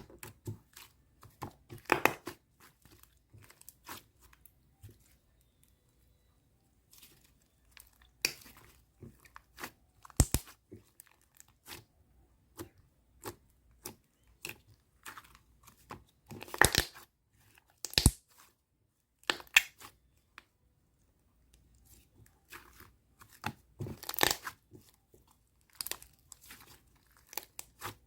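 White slime being squeezed, stretched and pressed by hands, making irregular sharp clicks and short crackling, crinkling bursts with brief pauses between them.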